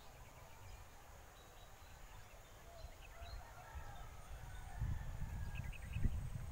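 Faint, scattered bird chirps and short whistled calls over a quiet rural background. About five seconds in, irregular low rumbling buffets begin and grow louder, like wind hitting the microphone.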